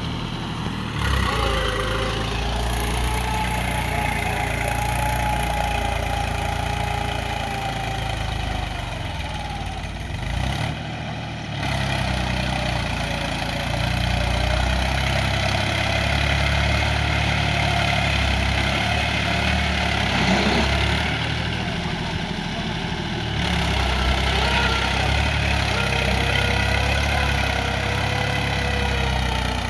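Small engine of a homemade mini tractor running steadily, with a few abrupt jumps in the sound where the footage is cut.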